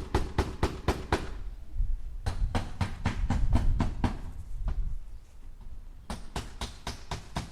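Hammer striking nails into wood in quick runs of blows, about five a second, in three bursts with short pauses between them.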